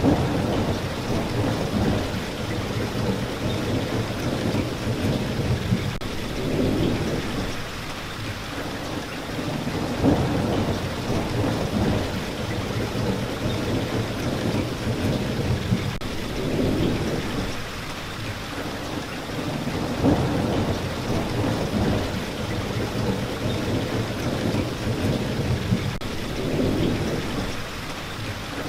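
Steady rain with thunder rolling in low swells every few seconds, with a few sharper cracks.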